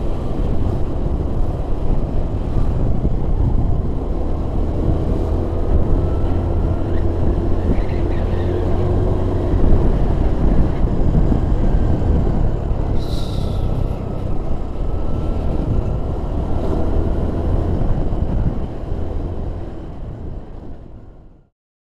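Vehicle driving along a winding road, recorded on board: steady engine and road rumble with a faint rising and falling engine whine and a brief high squeak about halfway through. The sound fades away near the end.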